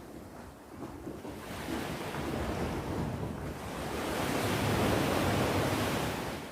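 Sea waves on the shore: a wash of surf that builds over a few seconds, peaks, and falls away suddenly near the end.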